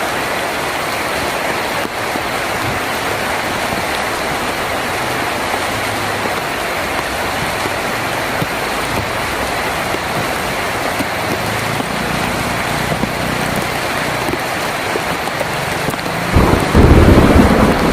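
Heavy rain falling steadily on a tin roof. Near the end a loud, low rumble of thunder breaks in.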